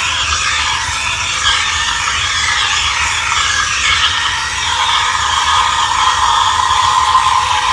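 Steam wand of a Moritz espresso machine hissing steadily as it froths milk, over a low mechanical rattle from the machine; the hiss takes on a stronger, narrower tone about five seconds in.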